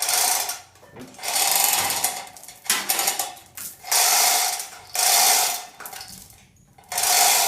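Floor jack under a half-split tractor being worked and shoved along: about six grating, rattling metal strokes, each lasting under a second to a little over a second, with pauses between.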